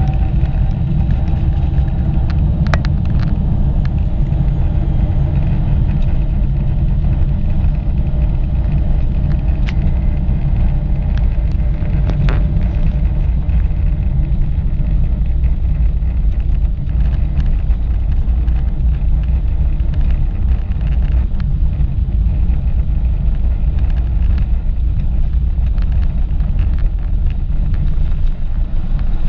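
Boeing 777-300ER's GE90-115B turbofan engines at take-off thrust: a loud, steady rumble with a faint engine whine that finishes rising in the first second and then holds. A few brief ticks are heard.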